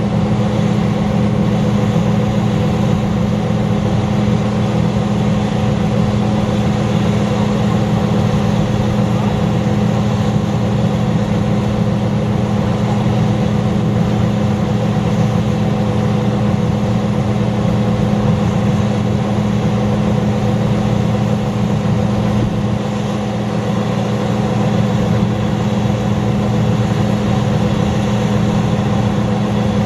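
Combine harvester running: a steady diesel engine drone that holds one even pitch.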